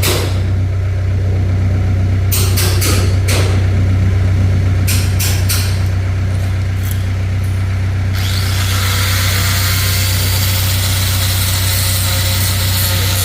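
A steady low engine hum runs throughout, with several sharp knocks in small groups. About eight seconds in, a steady hissing, grinding noise of a power tool starts and keeps going.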